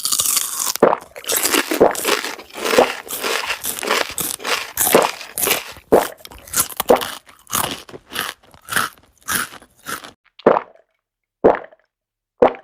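Crunchy eating sound effect: rapid chewing crunches for about ten seconds, then three separate crunches near the end.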